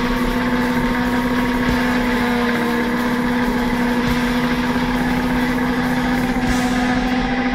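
Honda CBR600F's inline-four engine running at a steady speed under way, its note holding even, with wind rushing past the bike-mounted microphone.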